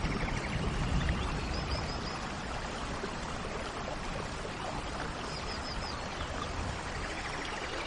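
Steady rain, with the last of a thunder rumble dying away in the first second. A bird gives a short run of three or four high chirps twice, and a faint rapid trill sounds near the start and again near the end.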